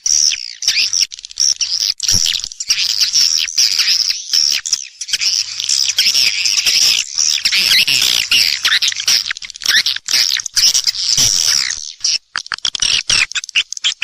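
Swiftlet lure recording: dense, continuous high twittering and chirping of swiftlets, the call played to draw the birds into a swiftlet house. Near the end it breaks into a rapid series of short, separate chirps.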